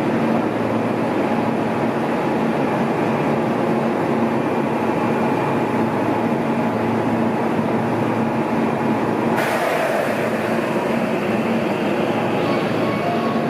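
Electric train running at a station platform: steady running noise with a low hum. A sudden hiss starts about nine seconds in and carries on.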